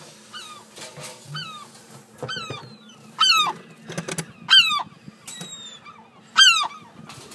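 Gulls squawking: a run of harsh calls, each falling in pitch, about one a second, loudest in the middle and near the end.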